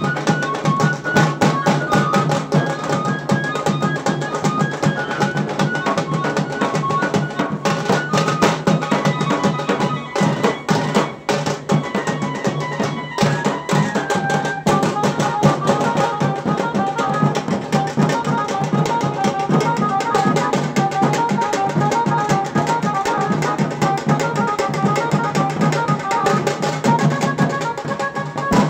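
Tasa drum band playing dense, fast, unbroken drumming, with a stepped melody line over the drums.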